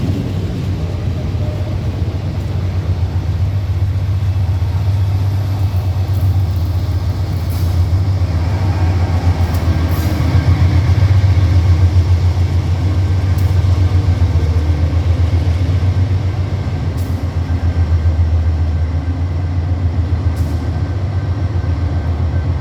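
Container freight train rolling past: a steady, loud low rumble of wagons on the rails, with a few sharp clicks.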